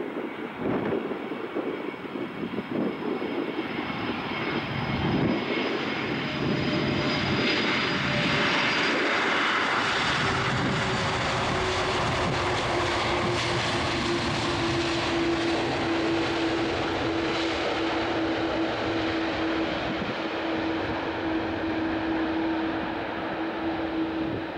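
Airbus A330-200 twin-engine jet airliner passing by on landing. The engine noise builds to a peak about eight to ten seconds in, then a steady humming tone holds while the sound slowly dies away.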